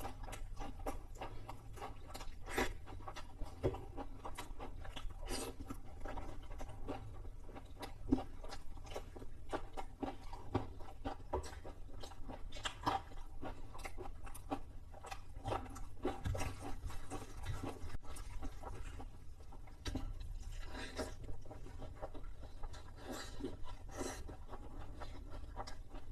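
Close-up chewing and crunching of crispy fried chicken, with irregular crackles and bites throughout.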